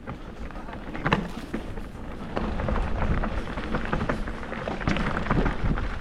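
Rumbling wind buffeting on the microphone, mixed with crackling and knocking from a small motorcycle's tyres and frame going over a rough, rocky dirt trail.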